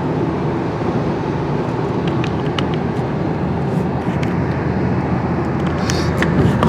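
Steady rumbling road and engine noise of a moving car, with a few faint ticks.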